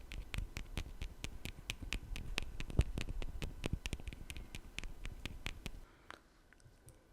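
Quick, even ASMR tapping, about four or five light taps a second, that stops about six seconds in, leaving only a couple of faint taps.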